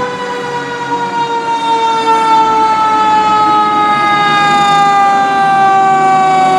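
Fire engine siren sounding one long tone that slowly falls in pitch as it winds down.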